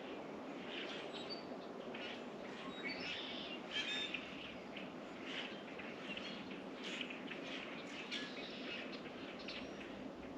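Small songbirds chirping and calling again and again at a bird feeder, many short notes in quick clusters, over a steady low background rumble.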